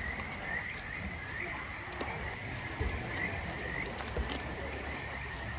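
A chorus of frogs calling steadily, short repeated calls on a high pitch overlapping one another, with a few faint clicks.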